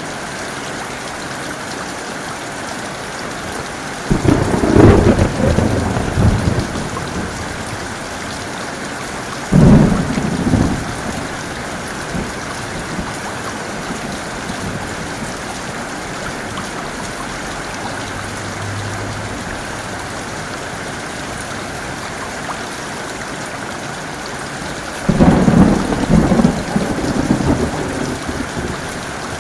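Steady heavy rainfall with three claps of thunder: a rumble about four seconds in, a sharper crack near the ten-second mark, and another long rumble near the end.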